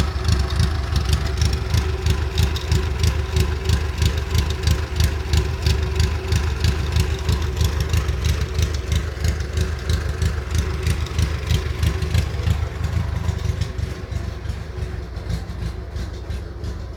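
Fiat 600's rear-mounted four-cylinder engine running with a steady low rumble and an even pulsing beat, getting somewhat quieter over the last few seconds.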